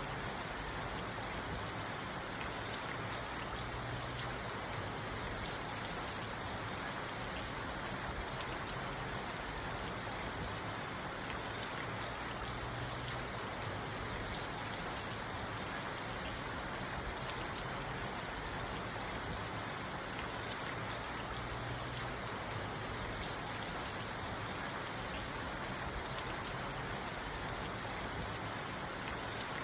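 Steady rain falling on a parked car, heard from inside the cabin, with fine drops pattering on the roof and glass.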